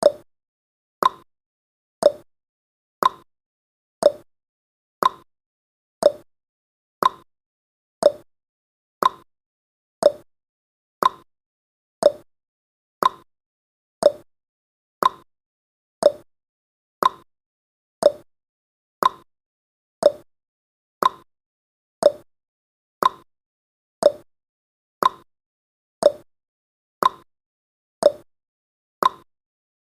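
Countdown timer's ticking sound effect: one short tick each second, alternating between a lower and a higher tick like a clock's tick-tock.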